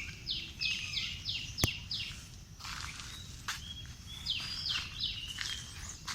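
A bird singing two runs of quick, falling chirps, five or six notes each, with a sharp click about a second and a half in. A low steady background noise runs underneath.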